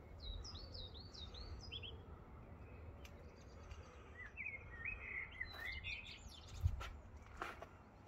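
Songbirds chirping: a quick run of short, sweeping chirps in the first two seconds, then another run of chirps, a little lower, around the middle. Under them a low steady rumble and a few short knocks near the end.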